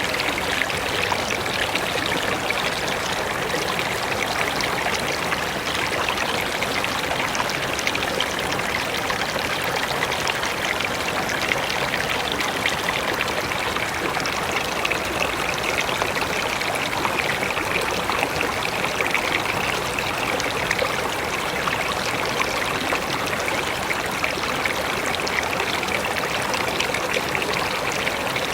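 River water flowing steadily, with constant fine splashing.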